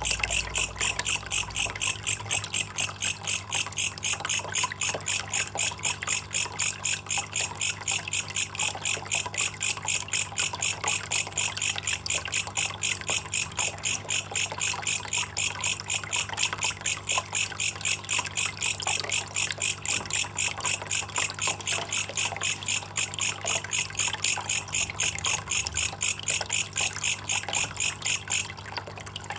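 Belalang kecek, an insect, calling in a fast, even train of identical chirps that stops near the end, over a faint trickle of water.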